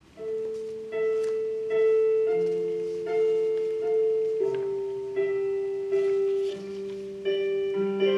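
Piano intro: sustained chords struck in a steady pulse over held bass notes.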